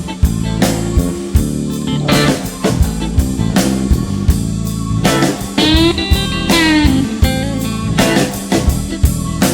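Instrumental break in a blues song: guitar lead over bass and a drum kit keeping a steady beat. About halfway through, the guitar bends its notes up and back down.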